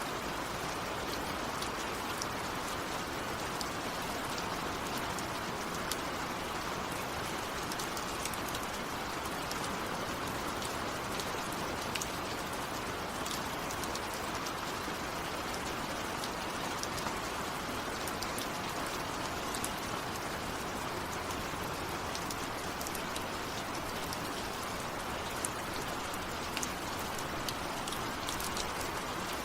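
Steady rain falling on a surface, with many small drops ticking sharply through the hiss.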